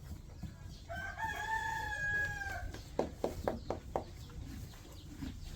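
A rooster crowing once, one long held call about a second in, followed by a quick run of about five short clicks.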